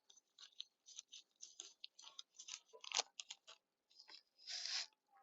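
Irregular small clicks, ticks and scratchy rustles of things being handled, with a sharper click about three seconds in and a short rustle near the end.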